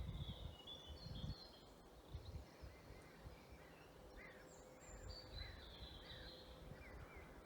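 Faint dusk birdsong: thin, high warbling phrases and short repeated chirps from birds in the woods. Low rumbles on the microphone near the start and again about five seconds in.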